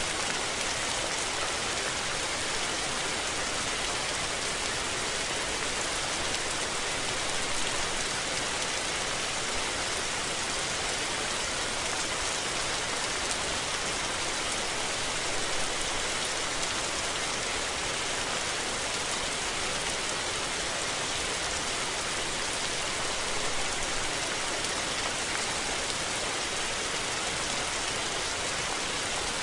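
Steady rain falling and pattering on surfaces, a dense, even hiss of many drops with no let-up.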